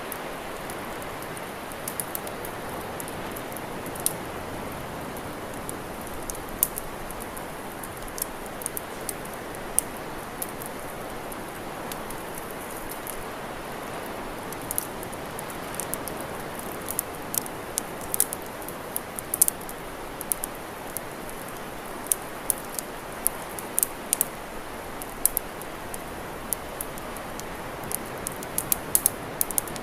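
Campfire crackling: many sharp, irregular pops and snaps over a steady rushing hiss, the pops coming more often in the second half.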